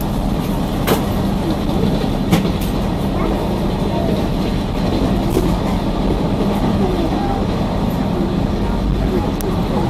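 Train running at speed on the rails: a steady rumble and hum, with a few sharp clicks of the wheels over rail joints.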